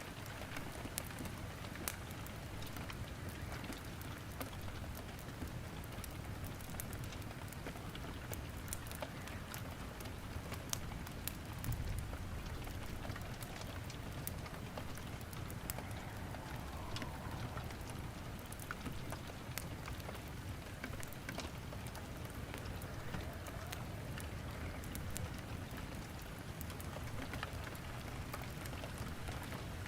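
Steady rain falling, with a wood fire crackling in a fireplace: frequent sharp pops and snaps over an even hiss.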